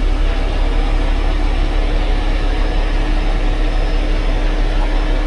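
Heavy truck diesel engine running steadily: a loud, even low rumble with a steady hum over it.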